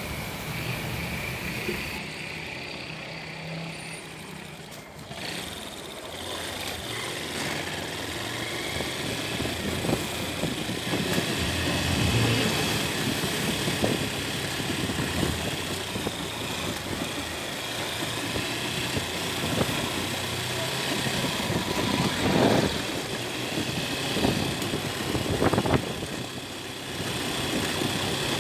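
Motorcycle engine running while riding, with road noise.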